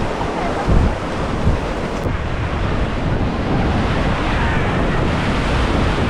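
Loud, steady rush of river water churning around a raft, with wind buffeting the microphone.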